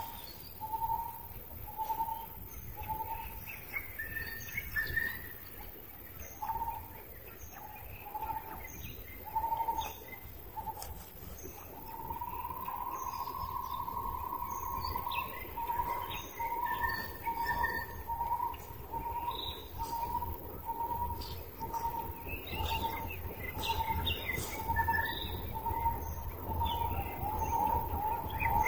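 Birds calling: a steady run of short, mid-pitched notes repeated about once or twice a second, one longer held note about twelve seconds in, and higher chirps scattered over them.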